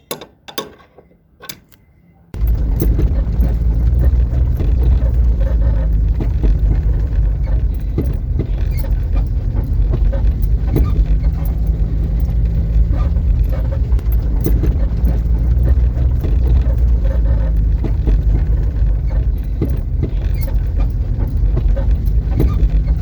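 A car being driven, with steady road rumble and irregular knocks and rattles from the front suspension, starting suddenly about two seconds in after a few light metallic clinks. The knocking is the sign of a loose shock absorber mounting bolt that has worn its bushings and itself.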